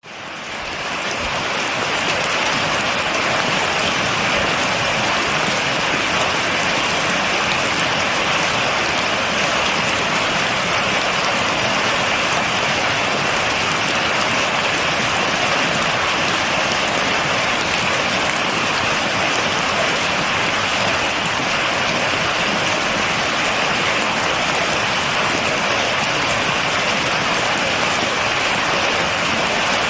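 Steady, heavy rain falling, a dense even hiss with fine pattering of drops and no thunder. It fades in over the first couple of seconds, then holds level.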